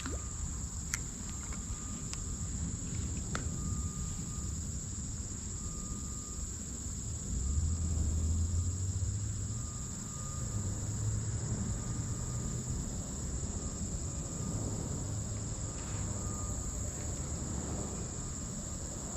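Insects chirring in a steady high-pitched drone, with a short fainter note repeating about every second and a half. Underneath is a low rumble that swells for a few seconds midway, and a few sharp clicks come in the first seconds.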